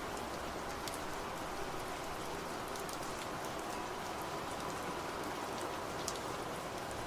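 Steady rainfall, an even hiss with many separate drops ticking on a surface.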